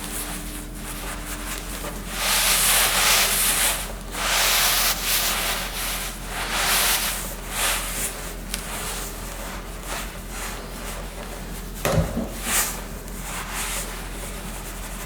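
Rubbing or scraping noise in several long strokes, loudest in the first half, with a single sharp knock about twelve seconds in.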